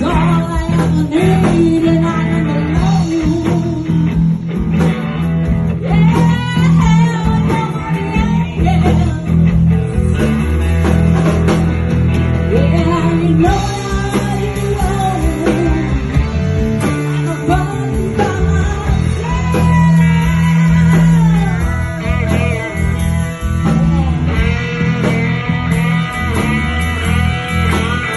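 Live blues-rock band playing, with electric guitar, bass and drums, and singing in parts.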